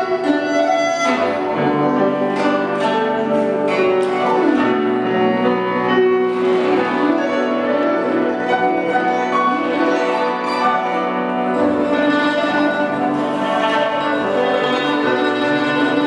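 Live Chinese instrumental music: a bamboo flute plays held, sliding melody notes over guzheng and piano accompaniment.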